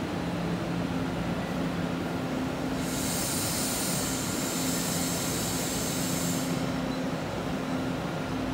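Taroko Express electric train pulling out of the station: a steady electric hum with two low tones, and a hiss that comes in about three seconds in and stops again near six and a half seconds.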